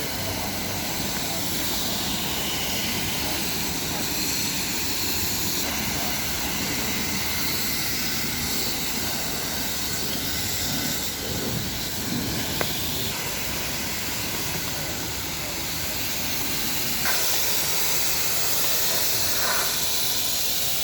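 Steady hissing spray from a car-wash wand, with a brief click about halfway through.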